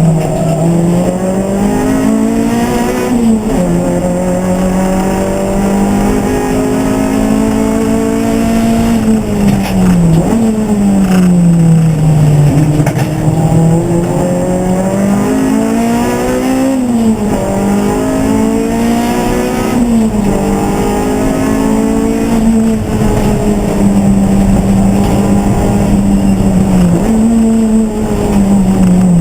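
Race car engine under racing load, its pitch climbing and then dropping again and again as it is driven through the gears: several sharp drops on upshifts and a long falling stretch as it slows.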